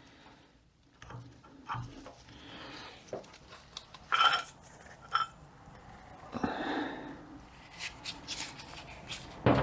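Metal parts of an automatic transmission clutch drum being worked apart by hand: scattered light clicks and scrapes of a snap ring and clutch plates, with a couple of sharper metal clinks about four and five seconds in.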